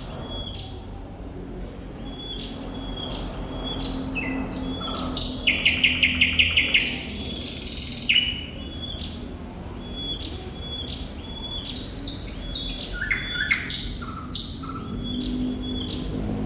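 Thrush nightingale singing: phrases of short repeated whistled notes, a fast rattling series about five seconds in followed by a harsh buzzy note, then more repeated notes and a few loud sharp notes near the end.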